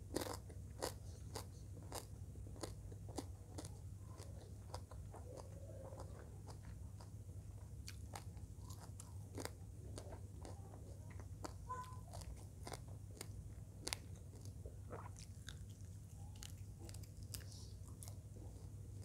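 Close-up mouth sounds of a person chewing fried eel and rice, with frequent small sharp crunches of the eel, one or two a second, over a low steady hum.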